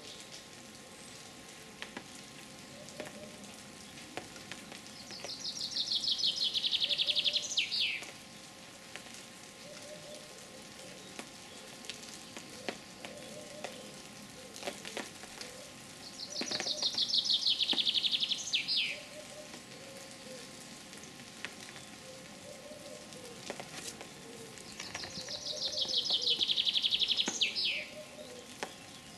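A songbird sings a rapid, high trill that slides down and ends in a quick downward flourish, three times about ten seconds apart. Faint scattered clicks are heard between the songs.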